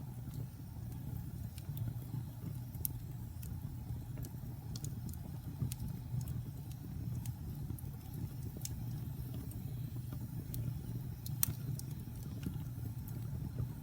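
Wood fire in a fireplace burning, with a steady low rumble and scattered sharp crackles and pops, the loudest pop about eleven seconds in.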